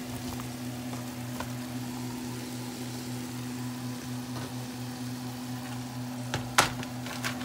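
Onions, ginger-garlic paste and turmeric frying in a pan as a steady sizzle, over a steady low hum. A few sharp clicks come near the end.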